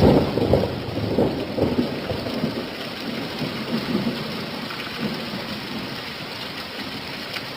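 Steady rain with a thunder rumble that breaks in suddenly at the start, rolls in several surges and fades over about five seconds.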